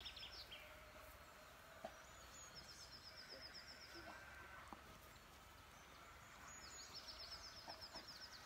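Faint birdsong: a small bird singing quick trills of high, rapidly repeated notes, one starting about two and a half seconds in and another near the end, over quiet background noise.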